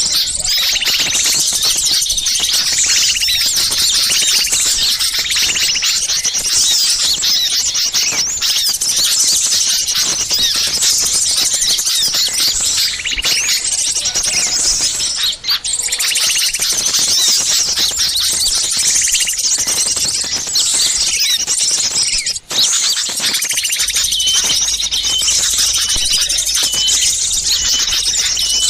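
Dense, layered chorus of many small songbirds calling and chattering agitatedly at once: a bird-lure recording of alarm and mobbing calls. It breaks off for an instant twice, and near the end a short note repeats rapidly over the chatter.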